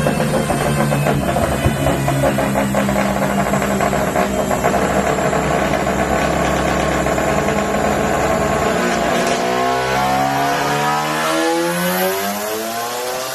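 Mazda RX7's twin-turbo 26B four-rotor billet rotary engine running with a steady, choppy note. About nine seconds in, it revs up and climbs in pitch.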